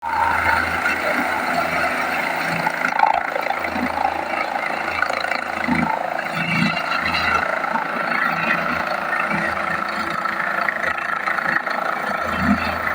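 Helicopter running with a steady, continuous mechanical drone.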